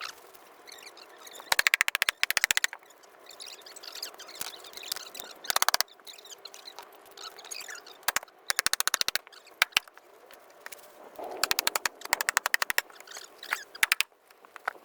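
Repeated short bursts of rapid, machine-like clicking or rattling, each lasting up to a second or so, about five times, with quieter background noise between.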